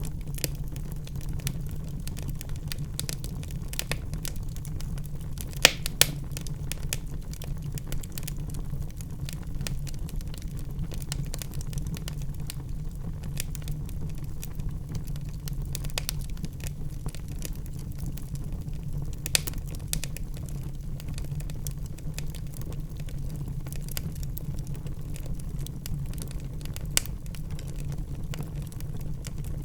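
Wood fire burning in a fireplace, crackling steadily with many small snaps over a low rumble of flames. A few sharper pops stand out, two close together about six seconds in and single ones later.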